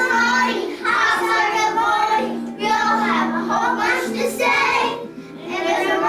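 Young children singing a song together over instrumental accompaniment, in phrases with short breaks between them.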